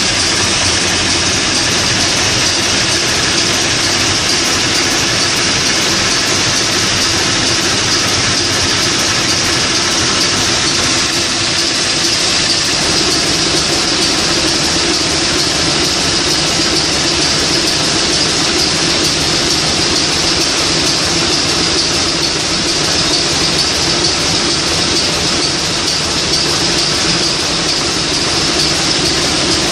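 Niigata 750 kW marine diesel main engine running steadily and loudly, with a dense hiss over a steady low hum.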